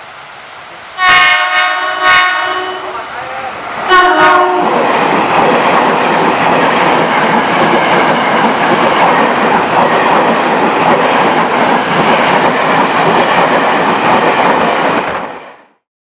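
KRL commuter electric train sounding its horn in a few short blasts, then running past close by with a loud, steady rush of wheels and motors, which cuts off suddenly near the end.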